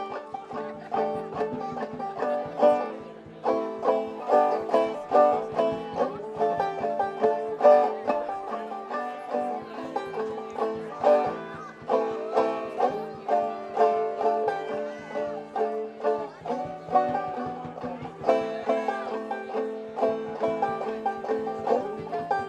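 Banjo music in a bluegrass style: a continuous run of quickly plucked notes.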